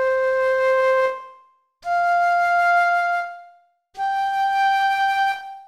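Recorder playing three long held notes one after another, each higher than the last, with short gaps between them and each note fading away.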